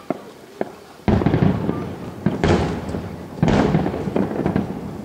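Aerial fireworks shells bursting: a few sharp pops, then about a second in a loud barrage of booms with two further big surges that die away as rumbling crackle.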